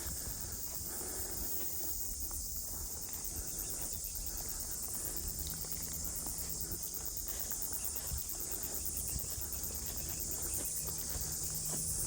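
Steady high-pitched chorus of insects, with footsteps on a track underneath.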